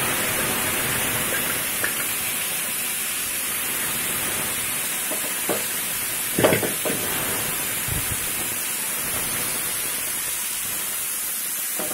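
Wet boiled carrot pieces sizzling and hissing steadily in hot oil in a frying pan. A few short knocks come through the middle, the loudest about six and a half seconds in.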